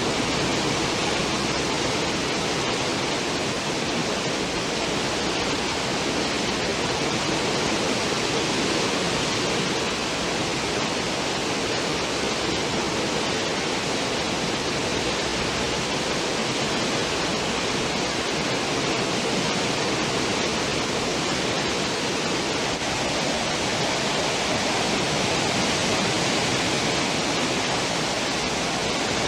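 Cruise ship's stern wake: a steady, even rush of churning water.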